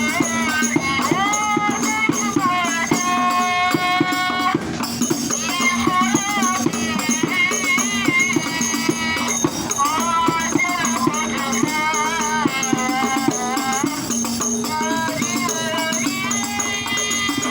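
Hadrah music: frame drums and hand percussion beating a fast, steady rhythm under a wavering melodic line with held notes.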